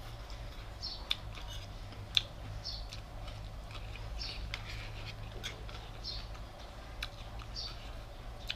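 Chewing food with soft wet mouth sounds about once a second, with a few sharp clicks of a metal fork and spoon against the plate.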